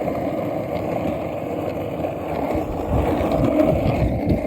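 Wheels rolling over pavement and wind buffeting the phone's microphone while riding, with low rumbling gusts in the second half.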